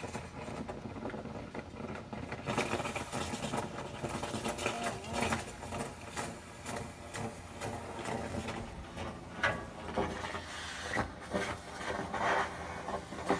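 Dryer vent cleaning equipment running with continuous mechanical rattling and clicking.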